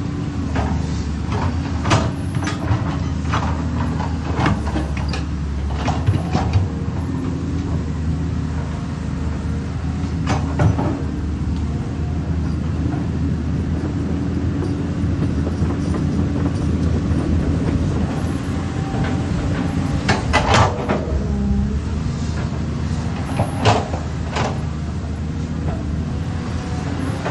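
Diesel engine of a Caterpillar 320D hydraulic excavator running steadily under load while digging, with sharp metallic clanks from the bucket and arm now and then, bunched around two seconds in, ten seconds in and twenty to twenty-four seconds in.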